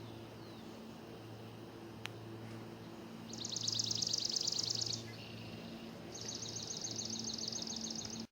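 A small songbird singing two rapid, high-pitched trills, each lasting one and a half to two seconds, the first starting about three seconds in. Under the trills runs a faint steady hum.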